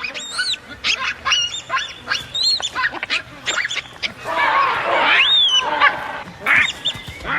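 Baboons screaming in alarm during a crocodile attack: a rapid run of short, high calls that rise and fall, with one longer call about five seconds in.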